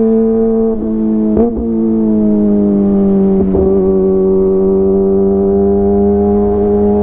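Kawasaki ZX-25R's 250 cc inline-four running at a steady cruise through a DX Generation GPR full-system aftermarket exhaust, a steady high-pitched drone. After a short break about a second and a half in, the pitch settles slightly lower, and there is another brief break near three and a half seconds.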